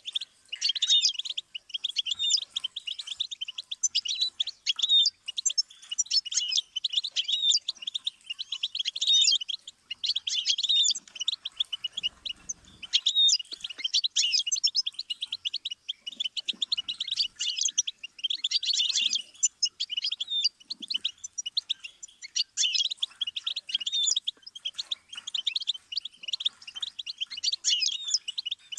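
Goldfinch song: long, fast twittering phrases of high chirps and trills, each a few seconds long with brief pauses between them.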